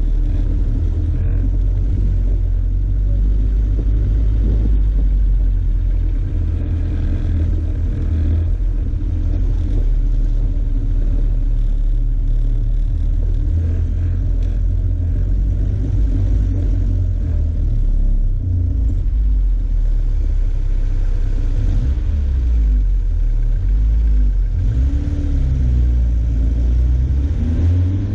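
Off-road 4x4's engine running under load through deep snow, a steady low rumble. Its pitch rises and falls several times in the last few seconds as the throttle changes.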